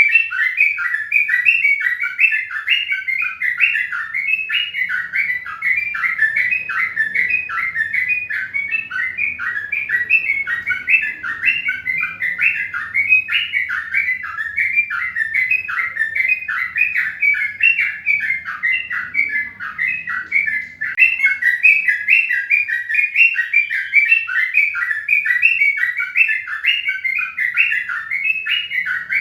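Birds chirping without pause: a dense run of short chirps, about four a second.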